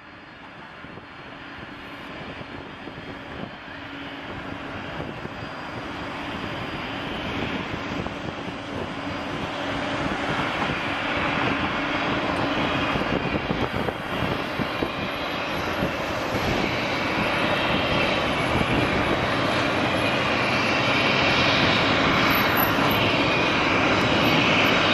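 Jet airliner engines running, a steady rushing roar that grows louder and louder, as when a jet spools up for takeoff or comes closer.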